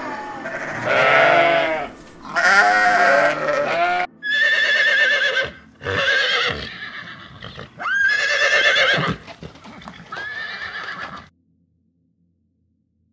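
Farm animals calling: two long wavering calls, then four shorter, higher-pitched calls. The sound cuts off abruptly about eleven seconds in.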